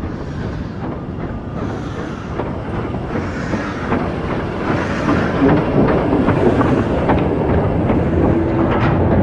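A train running close by, steadily growing louder, with a rumble and many sharp clicks from its wheels and running gear.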